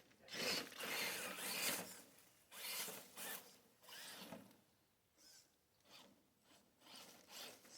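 RC rock-crawler truck, high-centered, driven in short bursts with its tires scrabbling and grinding on rock and dirt as it tries to climb free. The bursts are loudest in the first couple of seconds, then come fainter and more spaced out.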